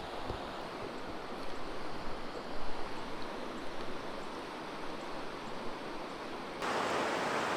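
Steady rushing of a clear, rocky creek and its small falls. Near the end the water noise jumps suddenly louder and brighter and holds there.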